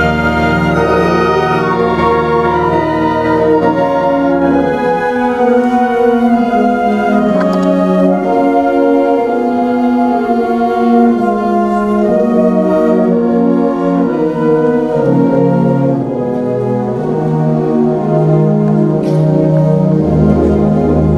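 High school concert band playing a slow piece of grief written after JFK's assassination: long held chords in the winds and brass that shift slowly. A deep bass note sounds under the chords at the start, drops out about five seconds in, and comes back near the end.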